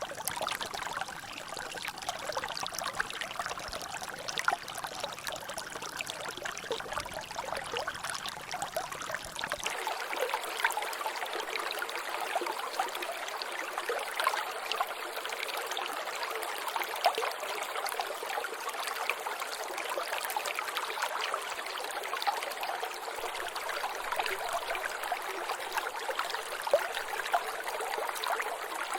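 Water trickling and dripping in a natural drainage: a steady run of water with a dense patter of small drops. About ten seconds in, a low rumble beneath it drops away abruptly.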